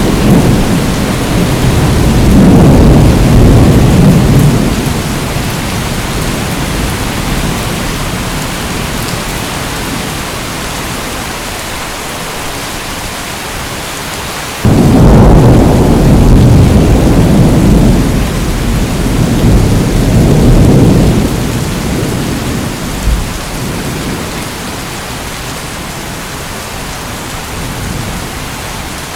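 Steady heavy rain with rolling thunder: a low rumble in the first few seconds, then a sudden loud thunderclap about halfway through that rolls on for several seconds before fading back to the rain.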